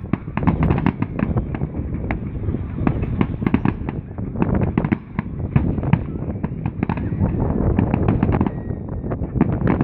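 Fireworks display: a dense, irregular barrage of bangs and crackles, several a second, over a continuous low rumble.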